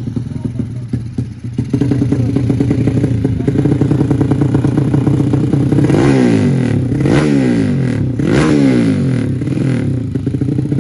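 200cc race motorcycle engines running hard, loud and steady. Twice in the second half a bike passes close by, its engine pitch sweeping up and then down as it goes past.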